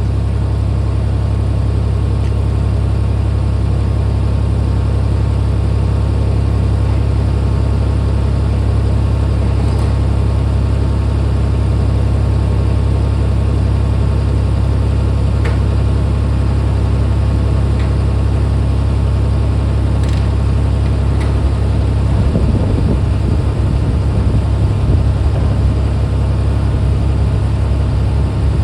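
Skid steer engine running steadily, its low hum turning rougher and more uneven about three quarters of the way in as the machine is put to work.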